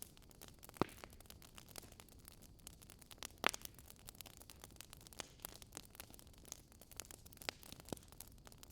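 Wood fire crackling: irregular small pops and snaps over a soft hiss, with sharper pops about a second in and at about three and a half seconds.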